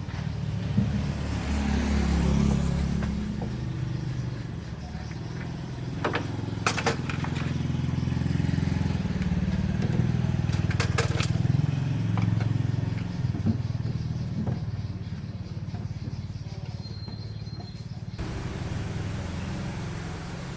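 Car engine running, its revs rising and falling, with a few sharp clicks partway through.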